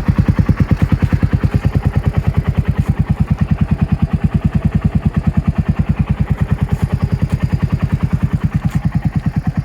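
Suzuki Skywave 250 SS scooter's single-cylinder four-stroke engine idling steadily, with even exhaust pulses at roughly ten a second.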